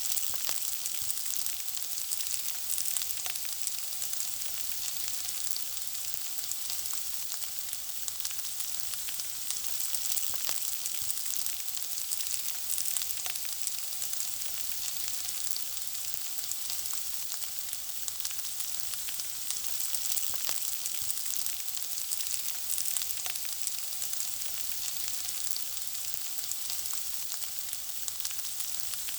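Food frying in hot oil: a steady sizzling hiss with many small crackles and pops.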